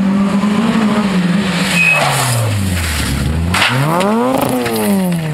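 Rally car engine whose note falls steadily for about three seconds, then revs up and back down. A short burst of noise comes about three and a half seconds in, as the car runs onto the grass verge.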